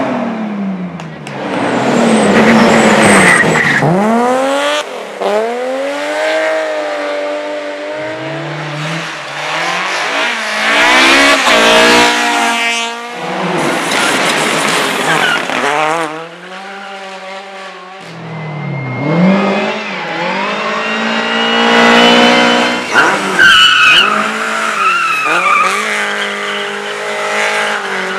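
Race cars passing at speed one after another, their engines revving up and dropping back through gear changes. In the second half there is a high-pitched squeal of tyres.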